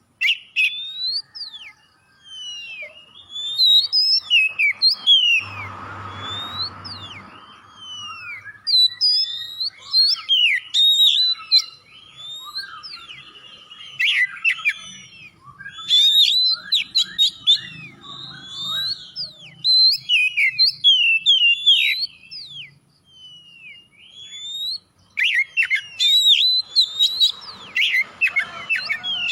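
Oriental magpie-robin (kacer) singing in full, unbroken song: a fast string of varied sweeping whistles and chirps, with a short rush of noise and low hum about six seconds in.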